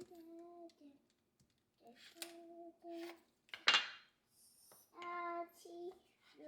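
Cutlery and dishes clinking, with a few sharp knocks, the loudest about halfway through. A child's voice sings held notes in between.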